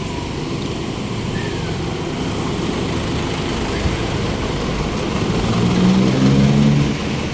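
Street traffic with motor vehicle engines running close by; one engine hum grows louder about five seconds in and drops away near the end.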